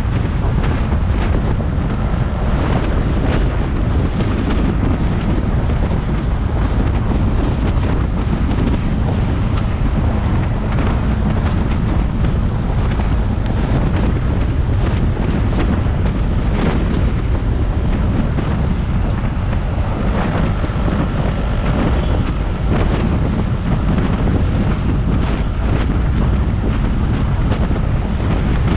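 Steady loud rush of wind over the microphone on a moving motorcycle, with engine and road noise underneath.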